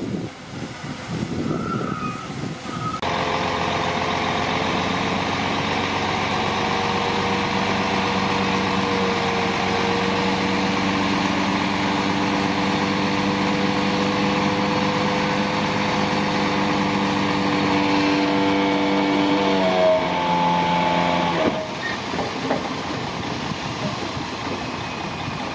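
Heavy diesel engine of earthmoving machinery running steadily, with wind on the microphone at first. Near the end its pitch sinks as it slows, then the sound cuts off suddenly, leaving a lower, quieter rumble.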